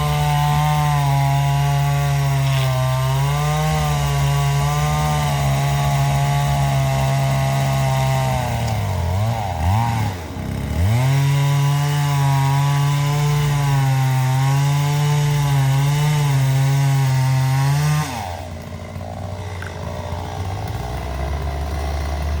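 Chainsaw held at full throttle and cutting wood. About ten seconds in it drops briefly toward idle and revs back up into the cut. It stops about three-quarters of the way through, leaving a lower, quieter engine hum.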